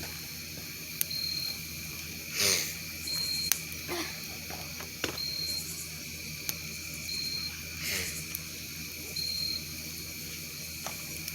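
Night insects chirping: a short high chirp repeating about every two seconds over a steady high insect drone, with a few sharp pops from a campfire.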